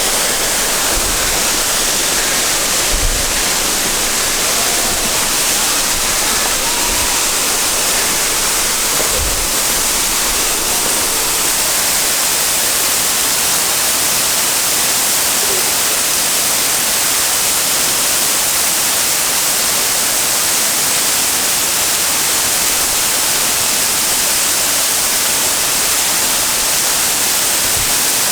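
Waterfall pouring steadily, a loud, even rush of falling water. A few brief low thumps come in the first ten seconds.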